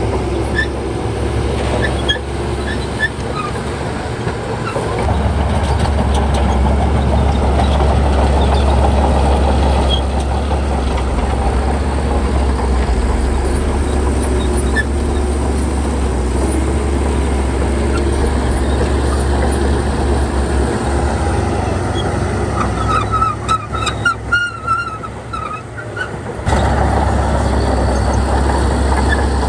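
Crawler bulldozer's diesel engine running steadily under load with a deep, even hum. About 23 seconds in the hum drops away for a few seconds and a few high squeaks or chirps come through, then the full engine sound comes back abruptly.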